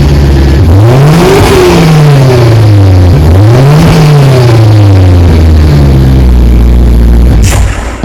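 BMW M3 E92's V8 idling after a cold start, blipped twice: each rev climbs quickly and sinks slowly back to idle, with the stock exhaust.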